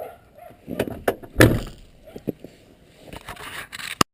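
Scattered knocks and clicks, with one heavy thump about a second and a half in; the sound cuts off suddenly near the end.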